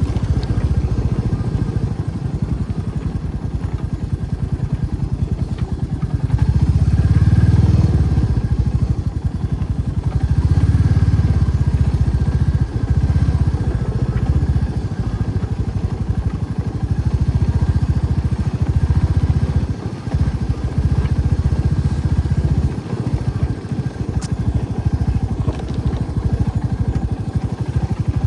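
Motorcycle engine running while riding, its sound swelling and easing with the throttle several times.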